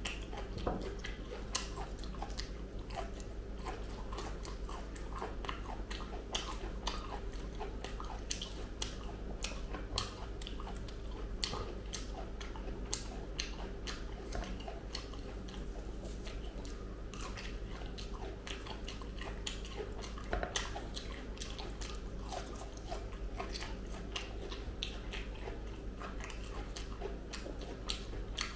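Close-miked chewing of soft, ripe jackfruit flesh: irregular wet mouth clicks and smacks, with the fibrous bulbs being pulled apart by hand, over a steady low hum.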